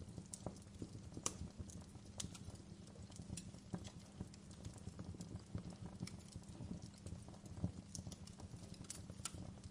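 Wood fire crackling, with irregular sharp pops and snaps over a faint low rumble.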